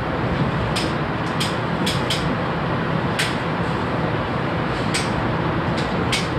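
Steady rumble and rush of a diesel-hauled commuter train coach rolling at speed, heard from inside at the window. Sharp high clicks or rattles come every second or so at uneven times.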